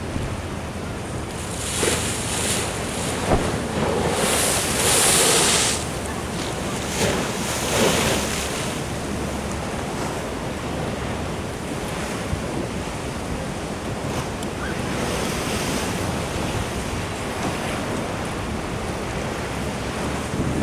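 Ocean surf washing in against a sea wall, with wind blowing on the microphone. A few louder surges come in the first half, the biggest about four to six seconds in.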